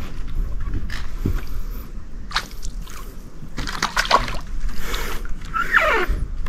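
Water splashing and knocks against a small boat as a hooked fish is pulled out of the water, with a short falling squeal near the end.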